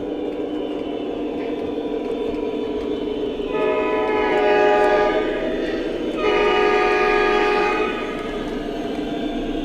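Lionel Legacy SD40-2 model diesel locomotive's onboard sound system: the diesel engine sound running steadily, with two long horn blasts, the first about three and a half seconds in, the second about six seconds in.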